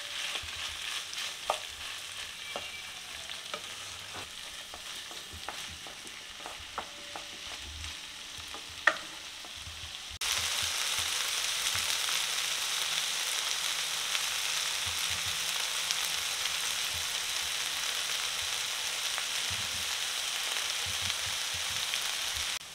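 Chicken pieces, bell peppers and onion sizzling in oil in a kadai, with sharp clicks and taps of a spatula stirring against the pan through the first half. About ten seconds in the sizzle jumps suddenly louder and then holds steady.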